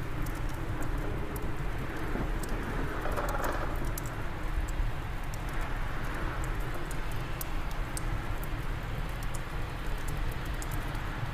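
Fireplace fire crackling with scattered sharp pops, over a steady rush of wind that swells in gusts about three and six seconds in.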